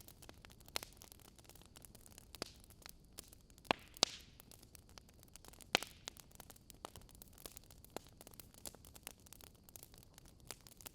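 Wood fire crackling: irregular sharp pops and snaps from burning logs over a soft hiss, with the loudest pops about four seconds in and near six seconds.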